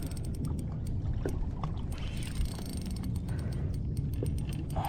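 Fishing reel being wound in during a fight with a hooked bass: a run of small quick clicks over a low rumble of wind and water around the boat.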